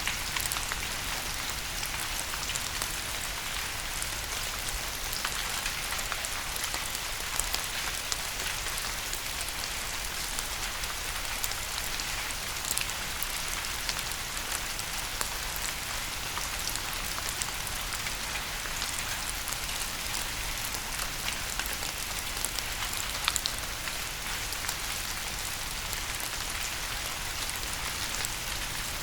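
Steady rain falling on a surface, a continuous hiss with many individual drops pattering and ticking through it, over a faint low rumble.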